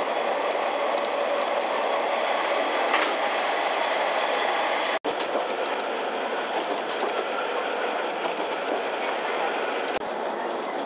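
Steady running noise of a diesel railcar, heard from inside the passenger cabin as it travels along the line. The sound drops out for an instant about five seconds in.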